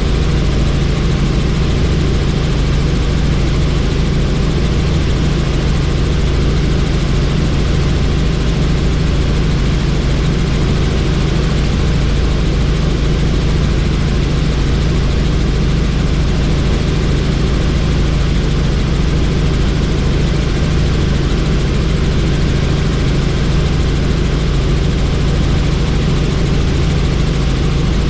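Helicopter in flight heard from inside a doors-off cabin: a steady drone of rotor and engine with wind rushing past the open doorway.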